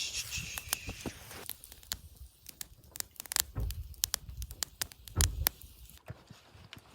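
Scattered clicks, light knocks and scrapes of cooking utensils and ingredients being handled while a hot pot is prepared, with two heavier low thuds about three and a half and five seconds in.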